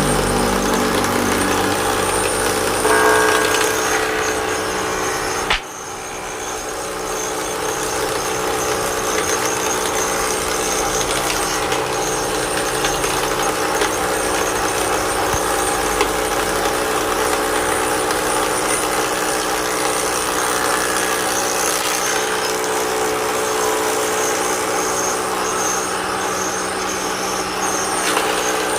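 An electric woodworking power tool running steadily with a motor hum. About five and a half seconds in there is a sharp click, after which the sound drops and builds back up over a couple of seconds.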